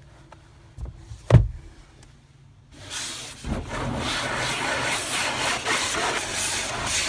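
A single dull thump about a second in, then from about three seconds in a steady, uneven scrubbing of a brush working over a car.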